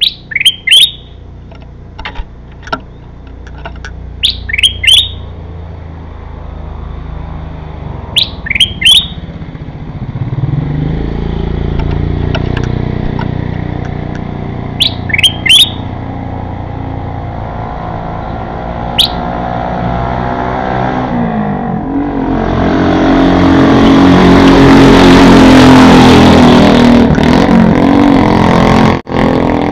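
Bulbul song: short phrases of two or three quick rising notes, repeated every few seconds. A motor vehicle passes, growing louder through the second half until it drowns out the birds.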